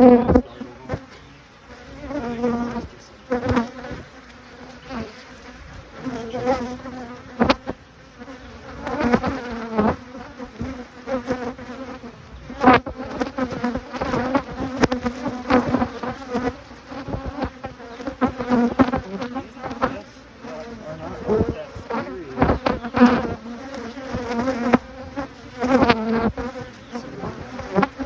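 Honeybees buzzing around an opened hive, a steady hum whose pitch wavers and swells as bees fly close. A few sharp knocks stand out.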